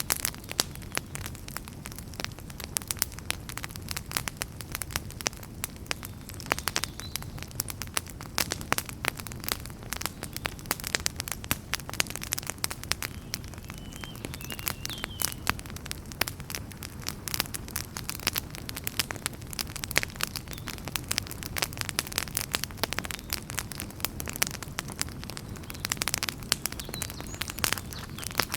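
Campfire of burning wood crackling and popping, a dense, irregular stream of sharp snaps over a low steady rumble.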